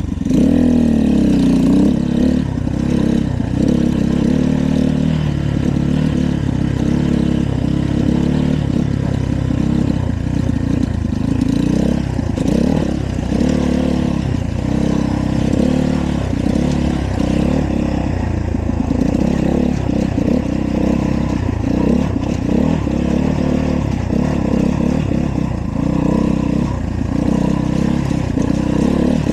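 Dirt bike engine running under way, its pitch rising and falling over and over as the throttle is worked.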